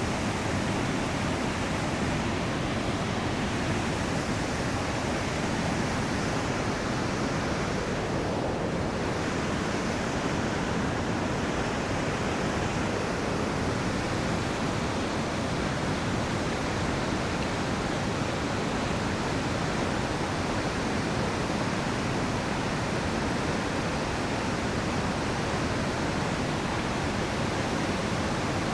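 Steady rush of river water running over rapids, an even, unbroken sound.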